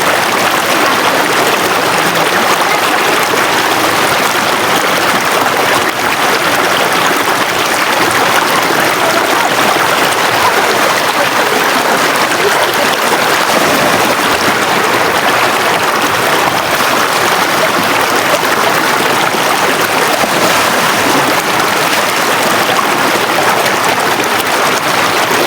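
River water rushing and flowing steadily, a loud, even wash of moving water with no breaks.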